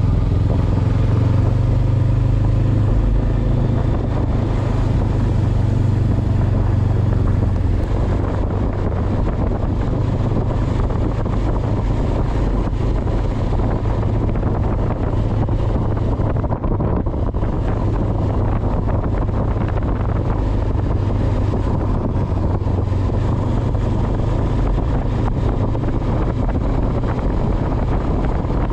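Honda CB500X's parallel-twin engine running steadily at a constant pace while riding, under an even rush of wind and road noise.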